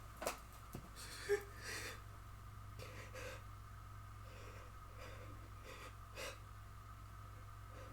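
A few short audible breaths and a sharp click about a second in, over a steady low electrical hum.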